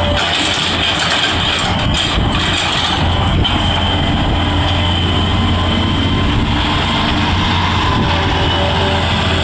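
Excavator's diesel engine running steadily under load, with a strong low hum and a faint steady whine above it.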